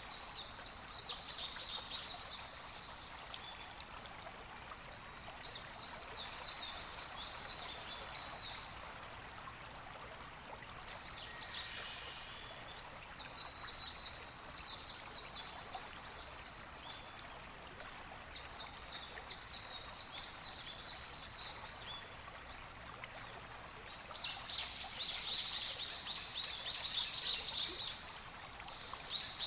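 Birds calling in repeated bouts of rapid, high chattering notes, each bout lasting a few seconds, with the loudest bout near the end, over a steady background hiss.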